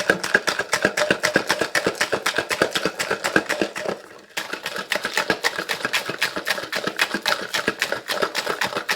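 Ice rattling hard inside a cocktail shaker shaken rapidly by hand, a fast, even clatter of several strikes a second. It breaks off briefly about four seconds in, then resumes.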